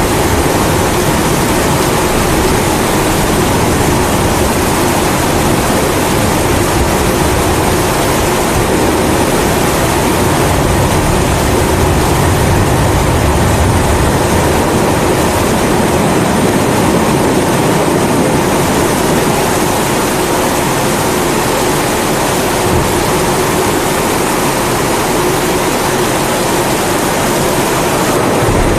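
Pressurised kerosene primus stove burner running with a steady rushing hiss, mixed with steady rain. A low rumble swells and fades about halfway through.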